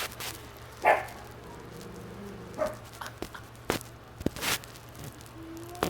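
Dog giving a few short, sharp barks, the loudest about a second in, alarmed at what it takes for a stranger's shadow.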